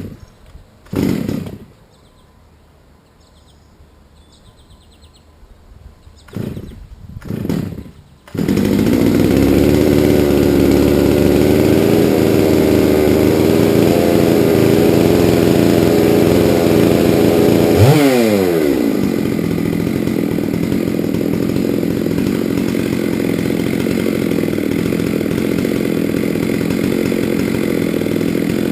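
Large chainsaw on a chainsaw mill, cold-started with a few short pulls before it catches about eight seconds in and runs at high revs. Around eighteen seconds the pitch sweeps quickly down and the saw settles into a steady, slightly quieter run.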